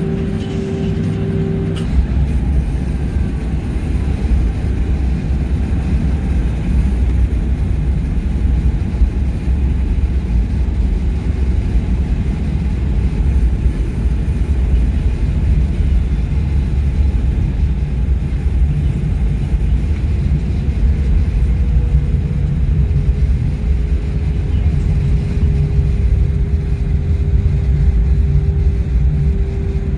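Airliner engine noise heard inside the passenger cabin: a steady, loud rumble with a low hum. A steady tone stops about two seconds in, when the rumble grows slightly louder, and a steady tone returns in the second half.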